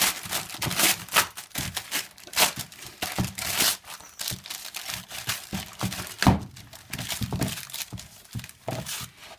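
A dog tearing and crumpling gift wrapping paper with its teeth: a run of irregular rips and crinkles.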